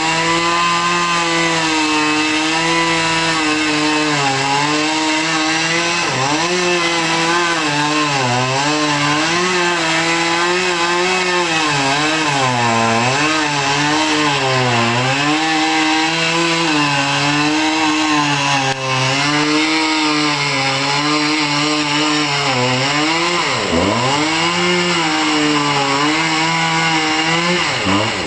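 Two-stroke chainsaw running under load, its engine pitch rising and sagging as the chain cuts. It drops sharply twice, about 24 seconds in and again near the end, as the saw bogs down in the wood.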